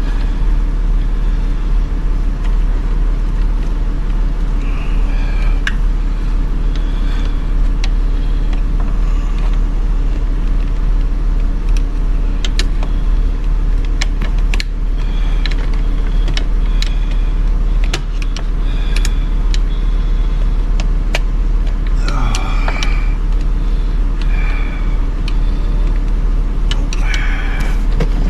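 Hand work on a car's center console trim: scattered clicks and light clinks of tools and plastic parts over a steady low rumble.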